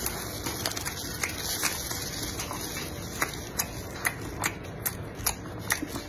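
Close-miked chewing of a spicy-seasoned balut (13-day fertilized duck egg), with irregular sharp, wet mouth clicks that come more often in the second half.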